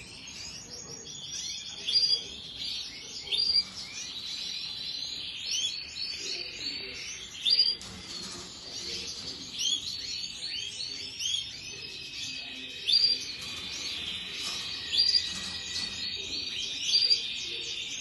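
A dense chorus of small cage birds chirping and singing together, with louder single calls standing out every second or two.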